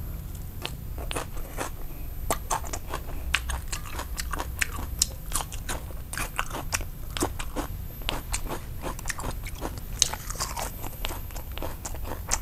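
Close-miked chewing of a mouthful of a Vietnamese grilled pork sausage (nem nướng) roll wrapped in fresh greens: irregular crisp crunches and wet mouth clicks, several a second.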